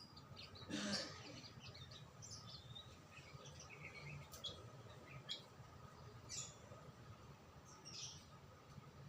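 Songbirds chirping faintly: short, scattered high chirps every second or so, with one louder noisy sound about a second in.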